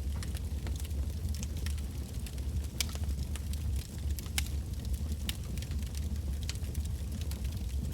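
Wood bonfire burning, logs crackling with frequent sharp pops over a steady low rumble of the flames.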